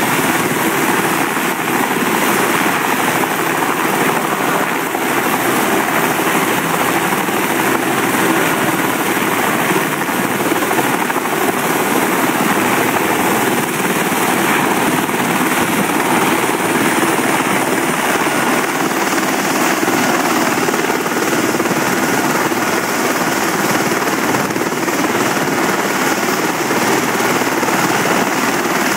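Bell 206L LongRanger helicopter running steadily, its single turboshaft engine and rotor making a dense, unbroken noise.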